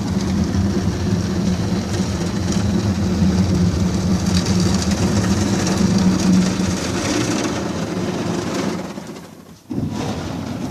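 Automatic car wash machinery working over the car, heard from inside the car: a steady loud mechanical rumble with a hum. It fades away about nine seconds in, then cuts back in suddenly.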